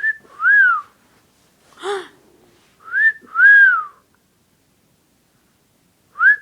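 Pet parrot whistling a two-note whistle, a short rising note followed by an arched up-and-down note, three times: at the start, about 3 s in and near the end. A single harsher call comes about 2 s in.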